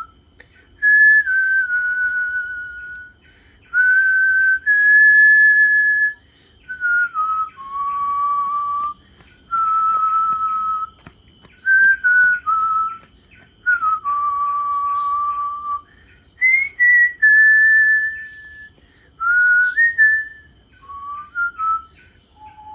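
A person whistling a slow tune: a string of held notes stepping up and down, each lasting a second or two, with short breaks between phrases.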